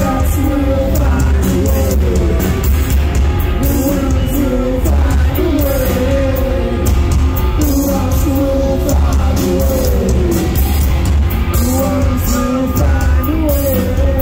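Live metalcore band playing loud and heavy, with sung vocals gliding over a thick low bass and regular cymbal crashes.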